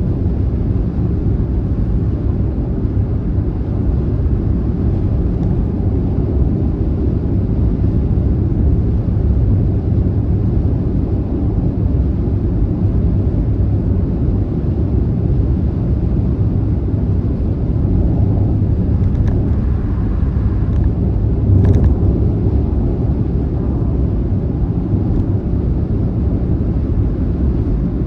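Car driving at motorway speed: a steady low road and tyre rumble, with a brief, slightly louder bump about three-quarters of the way through.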